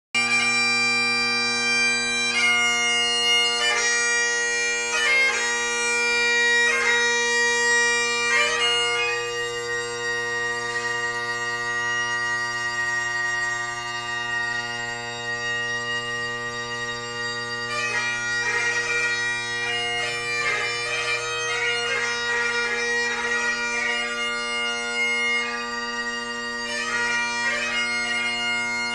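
Great Highland bagpipe played solo: the drones hold one steady chord underneath while the chanter plays a light-music melody, studded with quick grace-note ornaments.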